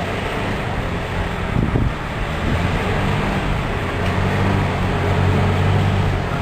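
Steady road traffic noise from vehicles driving along an expressway, with a low engine hum that grows stronger about halfway through.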